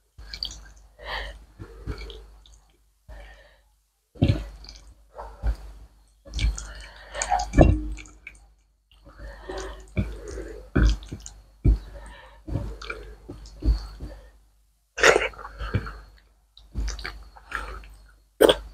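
Close-up eating sounds of rice and curry eaten by hand: chewing and lip smacks in irregular bursts, along with the wet squish of rice being kneaded into curry on the plate.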